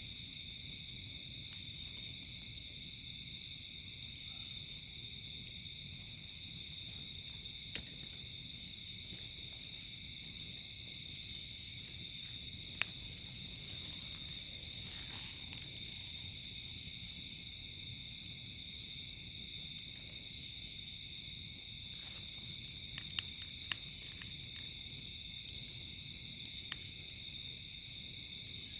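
Steady high-pitched chorus of night insects, with a few sharp pops from a crackling campfire, most of them in the second half.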